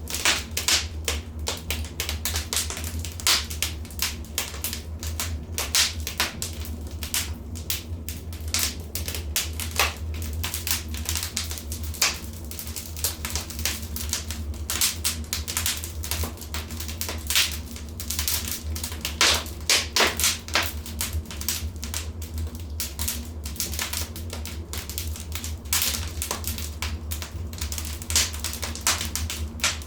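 Wood fire crackling in a fireplace: dense, irregular sharp pops and snaps, several a second, over a steady low rumble.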